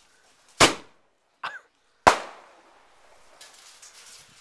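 Consumer fireworks bursting: two loud bangs about a second and a half apart, each trailing off, with a smaller pop between them. Faint crackling follows near the end.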